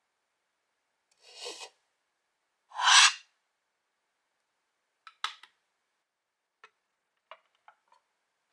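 Wood scraping and rubbing twice, the second scrape louder, followed by several light clicks and knocks.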